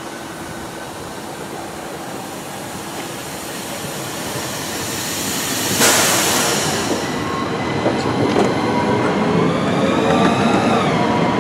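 Southeastern Class 395 Javelin electric train running in along the platform. Its rushing noise grows steadily louder and swells suddenly as the front passes, about six seconds in. Then the whine of its electric traction motors sets in, wavering and dipping in pitch near the end.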